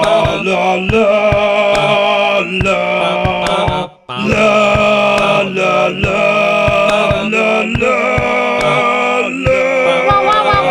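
A human voice holding a droning chant-like tone with strong buzzing overtones, with sharp clicks over it, in the manner of beatboxing. It breaks off briefly about four seconds in, as if for a breath, then resumes.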